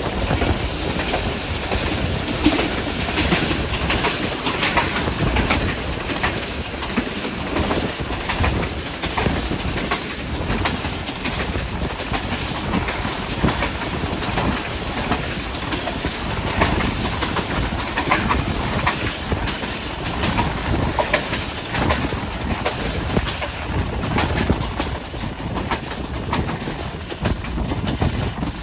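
Passenger train running steadily, its wheels clattering over the rail joints with a continuous rumble.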